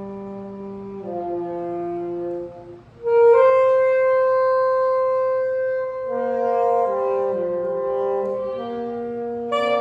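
Saxophones playing long held notes together in free improvisation, several lines overlapping and shifting pitch slowly. About three seconds in the sound drops briefly, then a louder group of sustained notes comes in.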